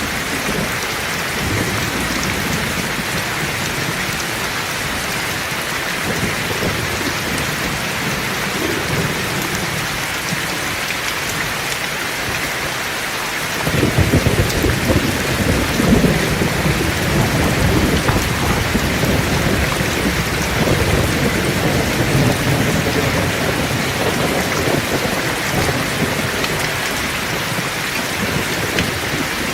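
Heavy rain falling steadily in a thunderstorm, with a thunder roll that starts suddenly about halfway through and rumbles on to the end.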